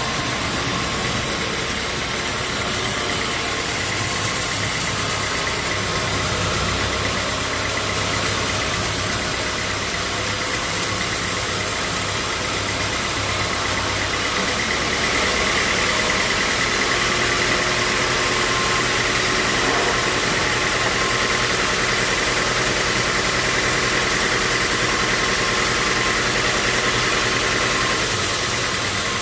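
Sawmill machinery running steadily, an engine-like drone with a faint high whine that shifts slightly about halfway through.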